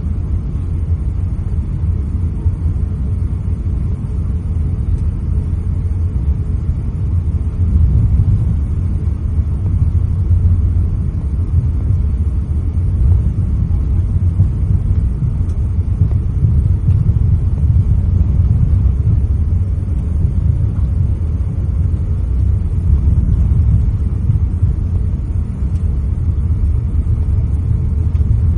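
Steady low rumble in the cabin of an Airbus A350-900 taxiing after landing.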